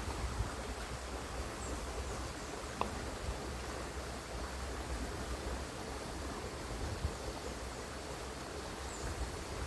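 Steady outdoor background noise: an even hiss over a low rumble, with one faint click about three seconds in.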